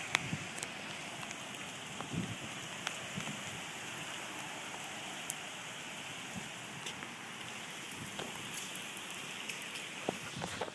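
Steady hurricane rain and wind noise, with scattered sharp taps and a few low buffets.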